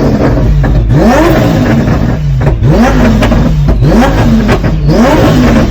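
A performance car engine revved repeatedly in quick blips over a steady low exhaust rumble, about six times, each rev rising sharply in pitch and then dropping back.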